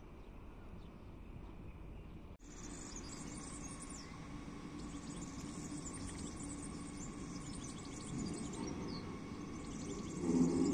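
Birds chirping over a low hum, with a Metro de Madrid train's rumble building near the end as it approaches.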